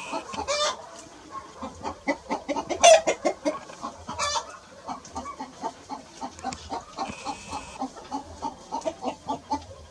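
Chickens clucking in a steady run of short clucks, several a second, with two louder, higher squawks about three and four seconds in.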